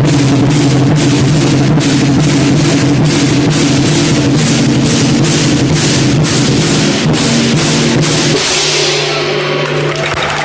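Lion dance percussion: a large drum with clashing cymbals and a gong, beating about two to three times a second. About eight seconds in the beating drops away, leaving a steady low ringing tone.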